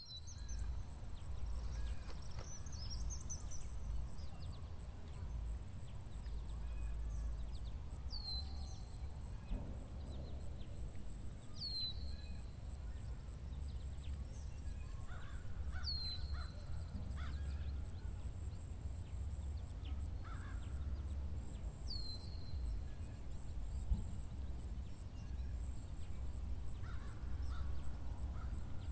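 Outdoor field ambience: a bird gives a short falling call every few seconds over a steady low rumble.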